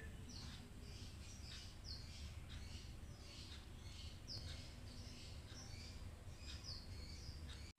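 A small bird chirping over and over, short high chirps that each drop in pitch, over a low steady background rumble.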